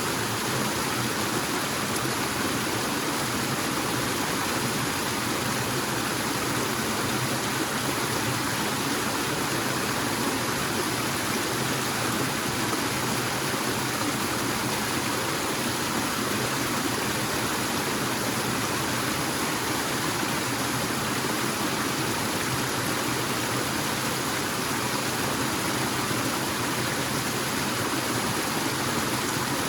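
Forest waterfall: water falling and rushing in a steady, unbroken hiss.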